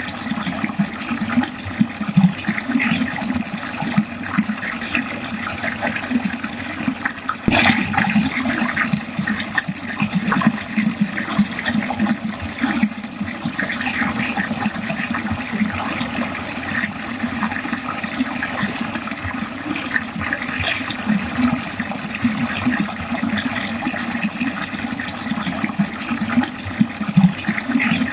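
Water pouring steadily into a drain, a continuous gurgling, splashing flow, with a brief click about seven and a half seconds in.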